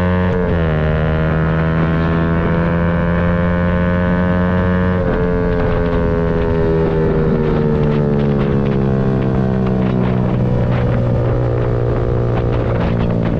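Yamaha MT-125's single-cylinder 125 cc engine pulling under way: the revs climb, drop at a gear change about half a second in, climb again, and drop at another shift about five seconds in. After that the revs ease down slowly and then hold steady.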